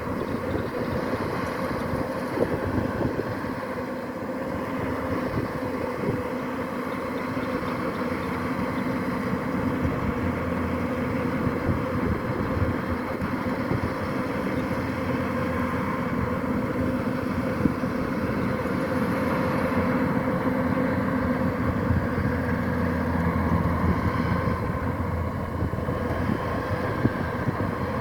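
Kubota DC-105X combine harvester running steadily, its diesel engine holding an even pitch under the mechanical noise of the machine.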